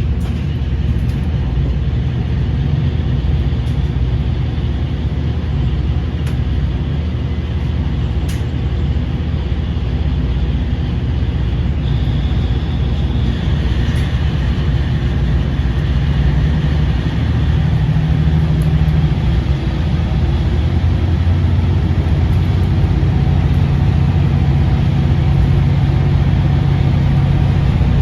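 KiHa 40 series diesel railcar running, heard on board: a steady diesel engine drone with the rumble of the train under way. A thin whine comes in for a few seconds near the middle, and from about halfway the engine grows louder and deeper.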